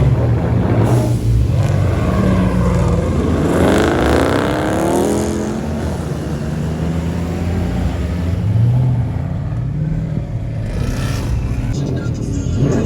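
Car engine running, revved about four seconds in with its pitch climbing, then settling back to a steady run.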